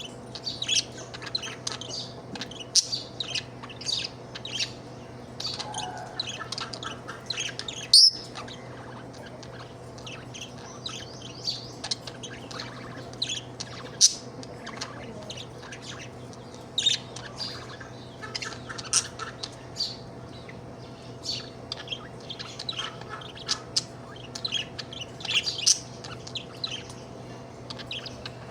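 A happy budgerigar chirping and chattering in quick runs of short, high notes, with a few louder sharp calls, over a faint steady hum.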